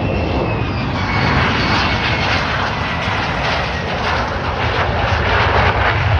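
F-35 Lightning II fighter jet passing close on its landing approach: loud jet noise with a whine that falls in pitch over the first few seconds, and a harsh crackle that builds through the rest.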